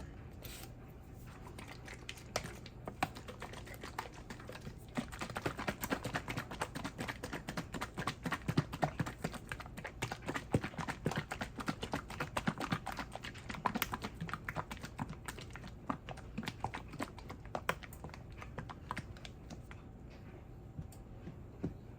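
A utensil stirring thick ranch dressing in a container, with a rapid run of small clicks and taps against the container's sides that is busiest in the middle and thins out near the end.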